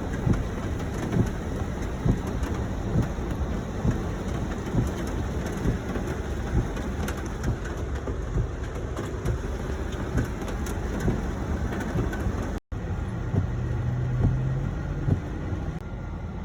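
Heavy rain during a thunderstorm, a steady dense hiss with many small irregular knocks and rumbles. After a cut near the end, a steady low hum is heard for about two seconds over quieter rain.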